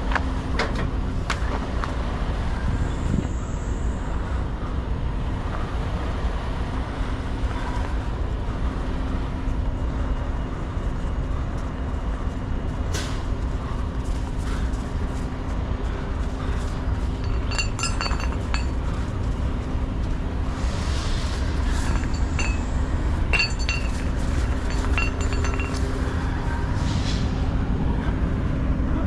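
Steady low rumble of a semi truck's diesel engine running, with a few sharp metallic clinks now and then.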